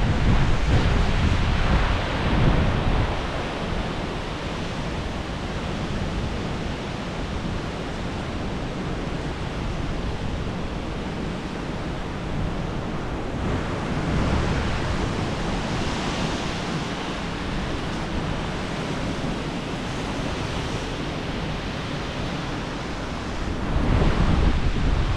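Strong storm wind gusting against the microphone over a steady rushing noise. The gusts are loudest in the first two seconds and again near the end.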